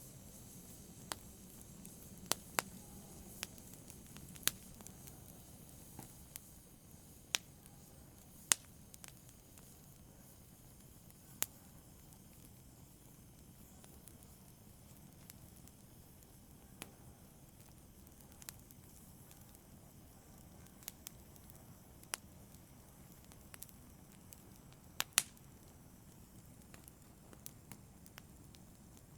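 Wood fire crackling in a fireplace: a low steady burning rustle with sharp irregular pops and snaps, a few of them louder.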